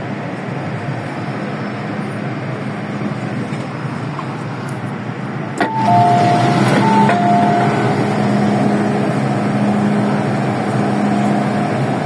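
Steady running noise inside an MTR M-Train carriage. About halfway through, a click is followed by an electronic two-note chime, high then low, sounding twice, and the running noise grows louder afterwards.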